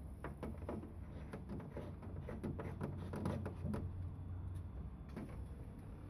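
Hands working on a refrigerator's interior lamp: a run of small plastic clicks and taps over a low steady hum.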